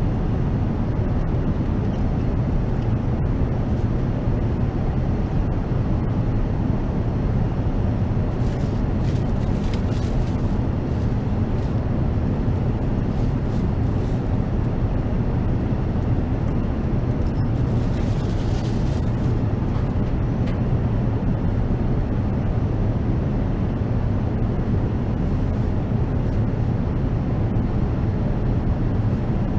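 Steady low roar of airflow and engines inside the Airbus A380's passenger cabin in flight, with faint brief rustling about nine and eighteen seconds in.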